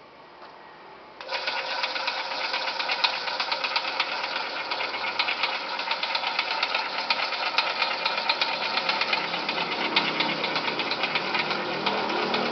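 Raffia twine winding machine starting abruptly about a second in, then running steadily with a fast, dense rattle.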